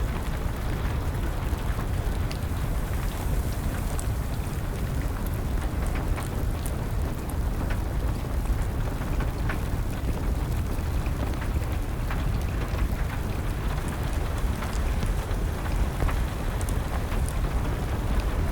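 Steady rain mixed with a crackling wood fire: a constant low rushing hiss with scattered sharp pops and snaps from the burning wood.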